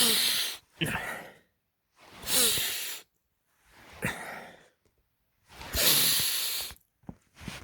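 A person's breathy exhalations, like heavy sighs: about five separate bursts, each under a second long and about a second and a half apart, some with a faint falling voice in them.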